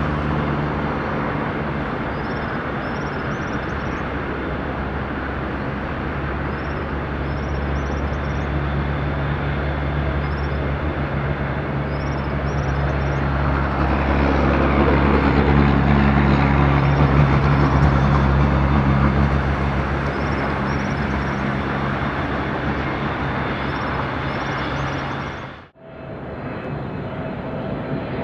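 Jet airliner's engines passing on landing: a steady rumble that swells about halfway through with a falling sweep in pitch as the aircraft goes by. Near the end the sound cuts off abruptly and comes back as a thinner steady hum.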